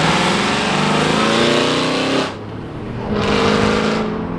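Straight-piped Aston Martin Vantage exhaust, loud, revving hard and then dropping off sharply about two seconds in before settling into a steadier engine note.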